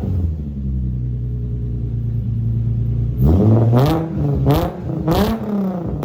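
Infiniti G35's 3.5-litre V6 through non-resonated test pipes, an eBay Y-pipe and a Megan Racing single-exit exhaust, idling steadily, then revved three times in quick succession about three seconds in, each rev climbing in pitch and dropping back.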